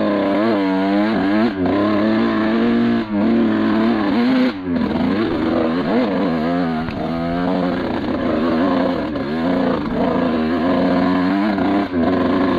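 1991 Suzuki RM125 two-stroke single-cylinder engine running hard under heavy throttle, its pitch surging and sagging unevenly and dropping out briefly a few times in the first seconds. It is running badly and barely staying running, a fault the rider blames on cheap gas-station premix oil.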